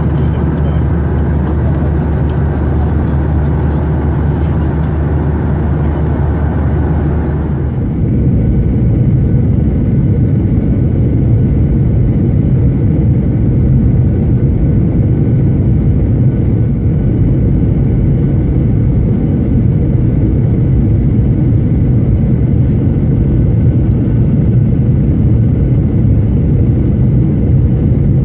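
Boeing 737-900ER cabin noise from a window seat: a steady rush of engine and airflow with a low hum. About eight seconds in, the sound changes suddenly, losing its strongest low tone and its upper rush as the overall level rises slightly.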